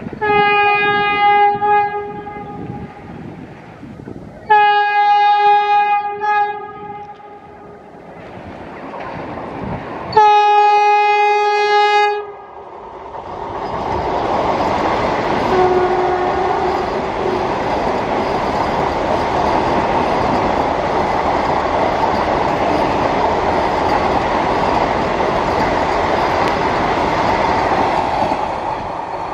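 Vande Bharat Express electric multiple-unit train sounding its horn three times, each blast about two seconds long, then passing close by at speed with a steady rush of wheels on rails lasting about fifteen seconds.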